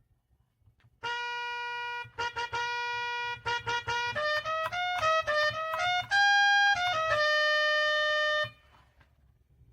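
A keyboard's built-in instrument sound playing a simple melody one note at a time: a few short repeated notes, then a rising run, ending on two long held notes and stopping cleanly.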